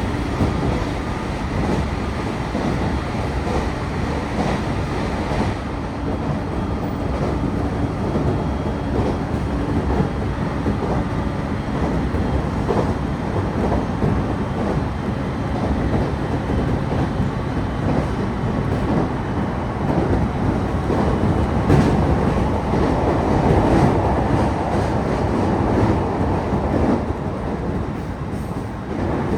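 Cabin noise inside a local electric train running at speed: a steady rumble of wheels on the rails, with now and then a knock over a rail joint.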